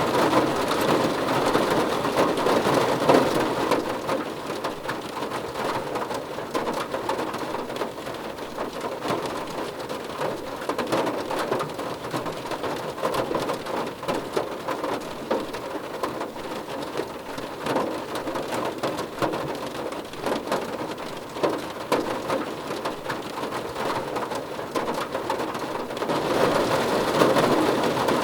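Steady rain drumming on a car roof, a dense patter of individual drops hitting the metal. It is heavier for the first few seconds, eases off, and picks up again near the end.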